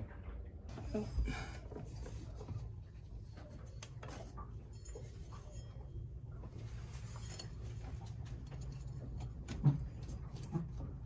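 Scattered light clicks and knocks of hand tools working on a boat engine while a V-belt is changed, with a steady low hum underneath and one sharper knock near the end.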